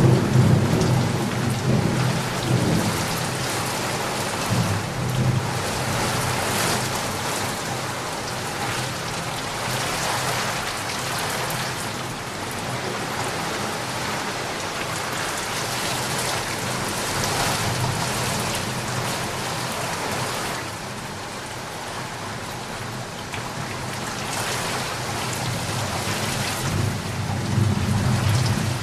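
Steady rain falling, with low rumbles of thunder at the start and again near the end.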